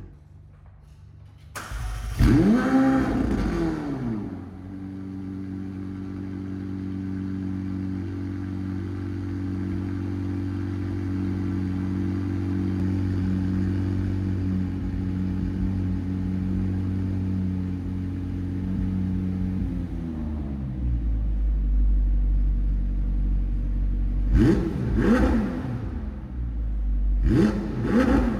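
McLaren 765LT's twin-turbo V8 starts up about a second and a half in with a short flare of revs, then settles into a steady fast idle. Around two-thirds of the way through the idle drops lower. Near the end the engine is given several quick throttle blips, each rising and falling.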